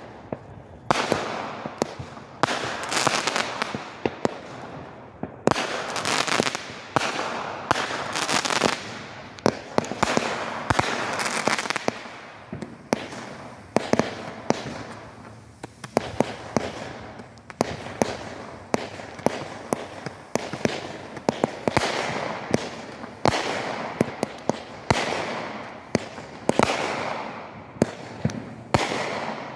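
A consumer firework cake (repeater) firing shot after shot: a rapid string of sharp reports, often less than a second apart, with hissing and crackling between them.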